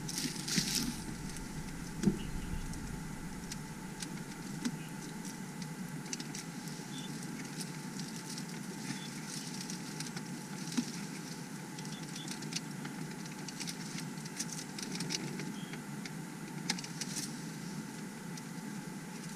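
Light taps, clicks and scratching from handling a phone case while an adhesive metal mounting plate is pressed onto it, over a steady background hiss. A sharper tap comes about two seconds in.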